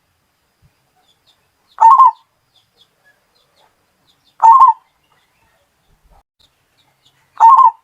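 Zebra dove (perkutut) cooing: three short calls, each under half a second, repeated roughly every two and a half to three seconds.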